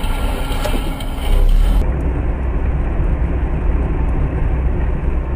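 Steady low rumble of a car driving, road and engine noise; the hiss above it cuts out abruptly about two seconds in.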